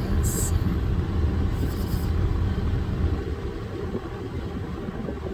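Steady low rumble of a car, with a couple of brief hissing noises in the first two seconds.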